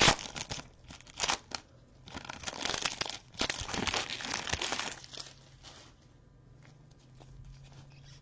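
Trading-card pack wrapper crinkling and tearing as the pack is opened, in repeated bursts over the first five seconds, then quieter handling.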